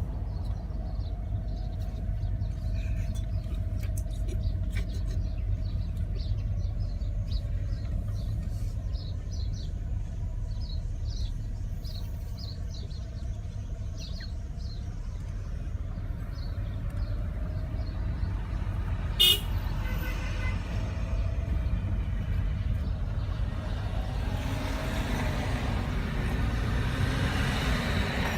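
Steady low road and wind rumble of a car driving along a street, with a short horn toot about two-thirds of the way through.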